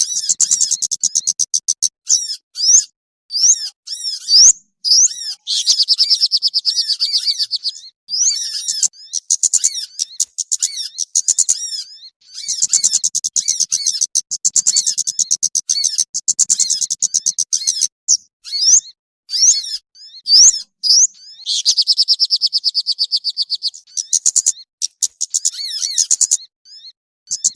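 Bird-lure call recording of small songbirds: loud, high-pitched rapid chirping trills and quick twittering whistles in short phrases, the same phrases coming round again and again.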